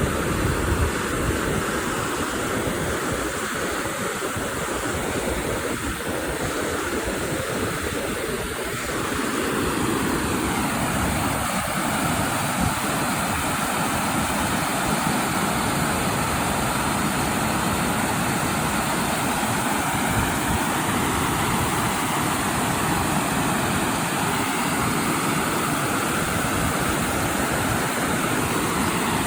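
Creek water flowing, a steady rushing wash that grows a little louder about nine seconds in.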